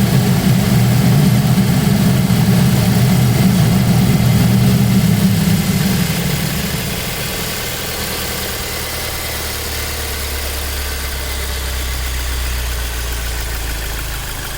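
Audi A4 B7's 2.0 TFSI engine idling after a cold start with a strange, loud low hum that fades out about six seconds in, leaving a quieter, steady idle. The noise is one that appears on startup and goes away after about a minute.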